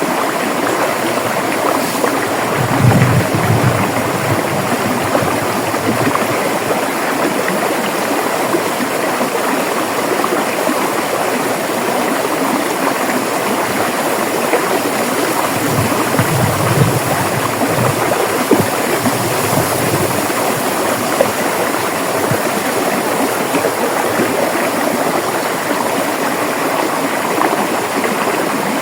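River water flowing over rocks: a steady, dense rush with low gurgling swells a few times.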